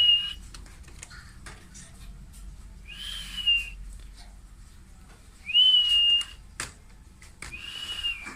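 Parrot giving four high whistled calls about two and a half seconds apart. Each call rises quickly and then holds a steady note for under a second. Short clicks sound between the calls.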